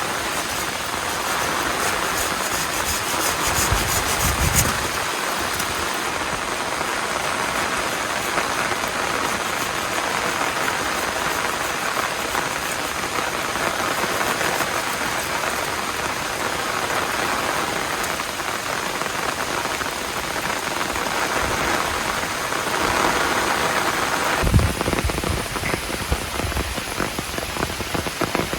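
Heavy rain falling steadily. About four seconds in, a rhythmic rasping stops. Near the end the rain's sound changes abruptly to a closer, more distinct patter.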